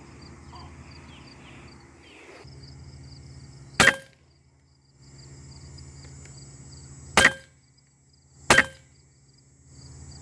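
Huben K1 .22 semi-automatic PCP air rifle firing three sharp shots: one about a third of the way in, then a quick follow-up pair about a second and a half apart near the end.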